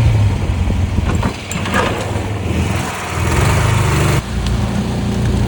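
Air-cooled mud-boat motor running under load as the boat pushes through thick sawgrass. The engine's low drone dips and surges a few times.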